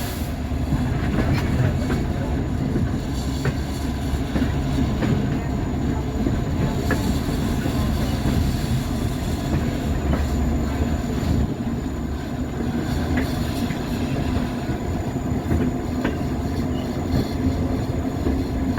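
Train riding noise heard from an open-air coach behind an EMD F40PHM-2 diesel-electric locomotive working upgrade: a steady low rumble of the locomotive and steel wheels on rail, with scattered clicks from the track.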